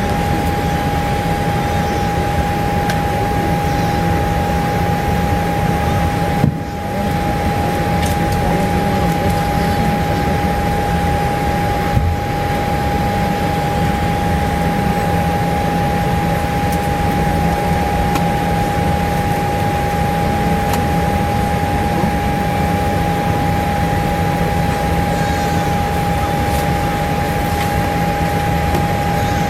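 Steady airliner cabin noise inside a Boeing 787-8 Dreamliner: a constant rush of ventilation with a steady whine and a low hum, broken briefly about six seconds in.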